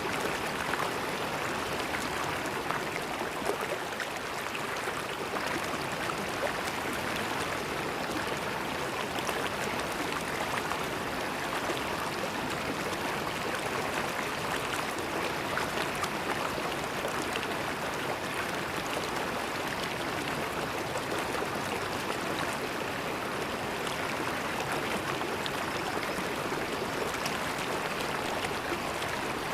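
River water flowing steadily over stones, a continuous rushing babble with fine splashing and trickling detail.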